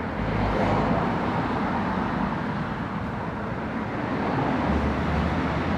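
Street traffic: the noise of passing cars, with a low rumble swelling near the start and again near the end.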